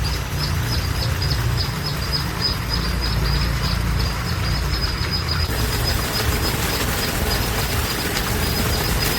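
Outdoor ambience: a steady low rumble of wind on the microphone, with a thin high chirp repeating three to four times a second throughout, like an insect or small bird calling.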